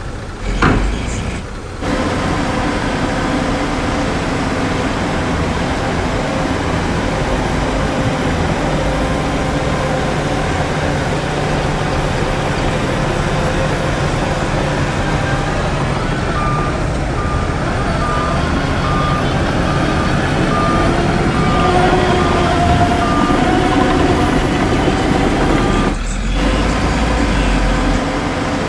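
Heavy diesel earthmoving machinery running steadily under load. A reversing alarm beeps at a steady pace for several seconds past the middle.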